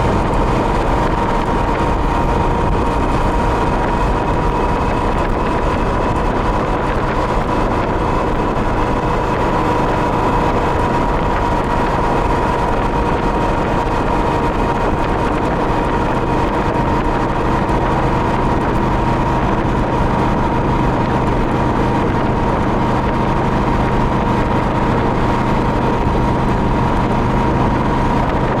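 Yamaha Royal Star V4 motorcycle cruising at a steady speed: a constant engine drone under a rush of road and wind noise, its pitch holding steady throughout.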